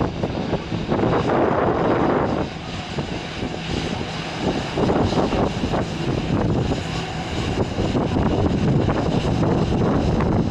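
Jet airliner engines running, mixed with gusty wind buffeting the microphone.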